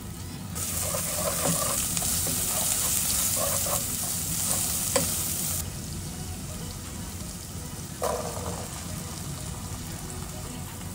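Onion-tomato masala and ground spices sizzling in hot oil in a frying pan, loudest for the first five seconds or so, then quieter. About eight seconds in there is a brief clatter as boiled chickpeas are tipped into the pan.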